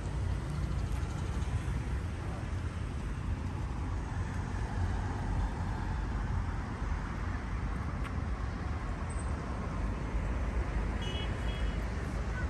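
Steady road traffic noise with a low rumble, one vehicle swelling louder as it passes through the middle.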